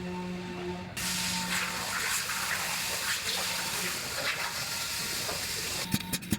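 A steady hiss starts abruptly about a second in and runs on evenly, then gives way near the end to a quick run of sharp clicks.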